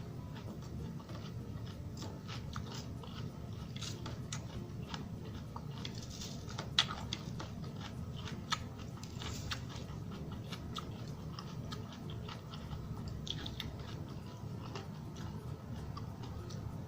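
A person chewing crunchy salad close to the microphone: scattered crisp crunches and mouth clicks, with two louder crunches near the middle.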